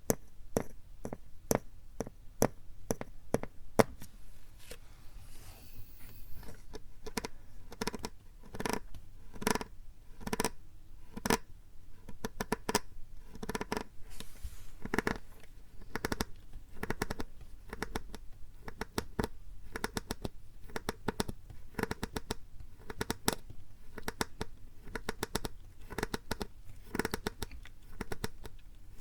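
Plastic PET bottle handled close to the microphone for ASMR: quick, irregular taps and crackling clicks, several a second, with a brief scratchy rustle.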